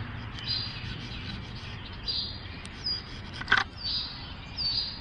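Small birds chirping: short high calls about once a second, some sliding down in pitch, over a low steady background rumble. A single sharp knock sounds about three and a half seconds in.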